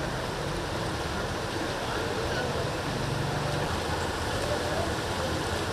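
Steady noise of rain and water on a flooded street, with a brief low hum about three seconds in.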